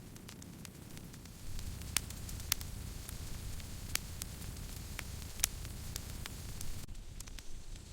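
Wood campfire crackling: scattered sharp pops and snaps, a few loud ones, over a steady low rush of burning.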